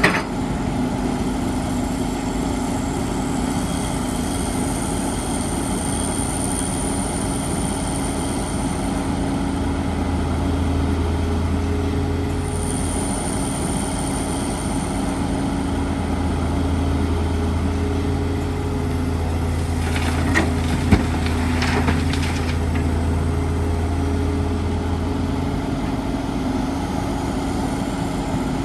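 Excavator's diesel engine running steadily, its low drone growing stronger for a long stretch in the middle as it works. A faint high whine comes and goes, and a few sharp clanks sound about twenty seconds in.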